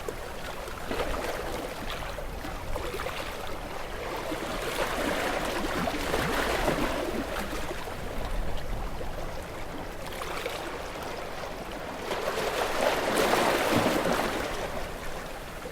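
Sea waves washing and splashing against rocks, the water rising and falling in several surges, with the biggest surge near the end.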